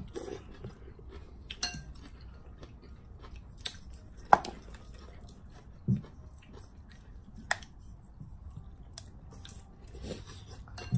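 Utensils clinking against bowls and dishes: a handful of scattered sharp clinks, the loudest a little over four seconds in, with a soft low knock around six seconds.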